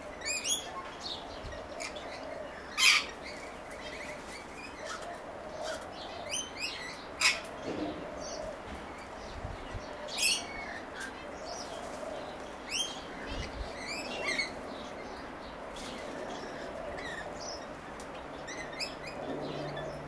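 Small birds chirping: short, high, downward-slurred calls at irregular intervals, with a few louder calls standing out.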